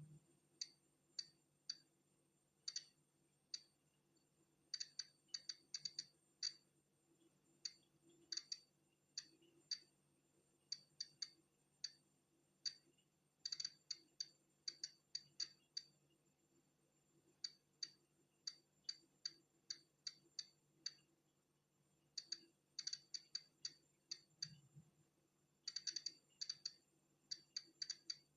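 Polon EKO-C digital Geiger counter clicking at random, irregular intervals, sometimes several in quick succession and sometimes a second or two apart. Each short, sharp click marks one detected count of natural background radiation.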